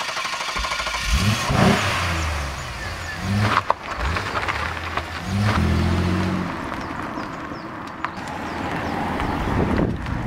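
Chevrolet Camaro Z28's V8 engine idling just after starting, revved up several times, the longest rev held for about a second and a half a little past the middle before dropping back to idle.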